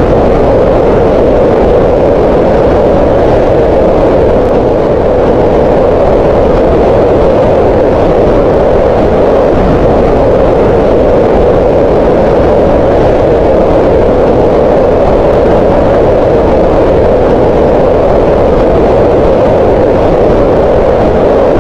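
Green noise: a steady, unchanging hiss with its energy centred in the middle range around 500 Hz and little in the highs.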